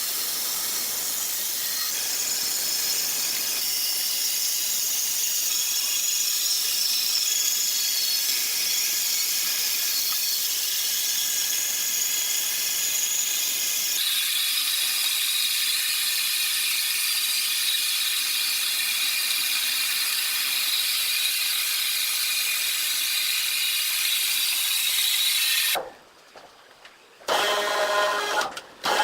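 Sawmill saw machinery running: a steady high-pitched hiss with a faint whine. It changes abruptly about halfway through, and near the end it cuts out briefly before resuming.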